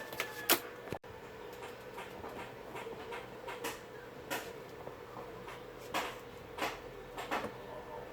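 Irregular sharp clicks and taps from tools and parts being handled at an electronics repair bench, the loudest about half a second in, over a steady faint hum.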